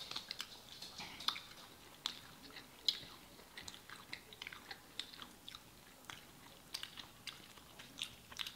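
Chewing and biting into crispy fried chicken wings, heard as scattered, irregular sharp mouth clicks and smacks.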